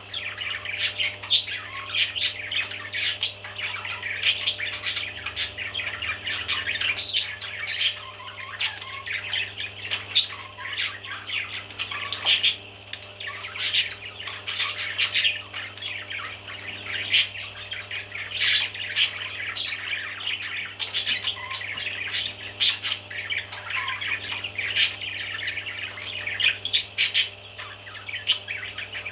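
A group of baby parrots calling constantly: many short squawks and chirps overlapping without a break, over a steady low hum.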